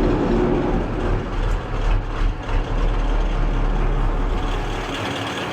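Truck engine running steadily, with a deep hum that drops away near the end.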